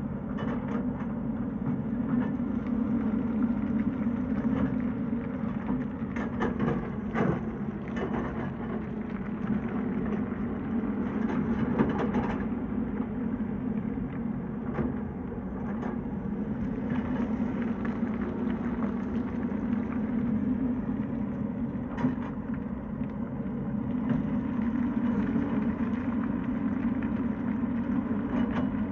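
Tata Hitachi excavator's diesel engine running steadily while the machine works, with scattered sharp knocks.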